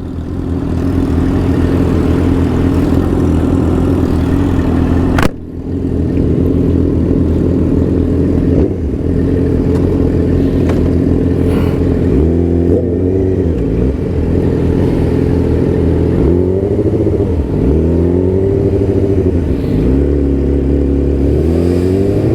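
Sportbike engine heard from the rider's seat, cruising steadily under a heavy rumble of wind. From about halfway it accelerates several times, the pitch climbing and then dropping back with each shift. A sharp click comes about five seconds in.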